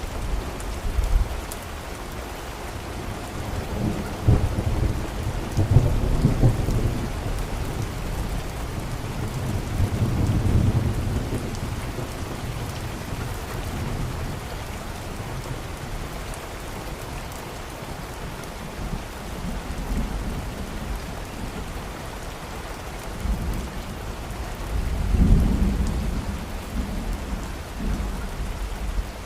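Steady rain falling, with low rolling thunder rumbles swelling a few seconds in, again about ten seconds in, and strongest near the end.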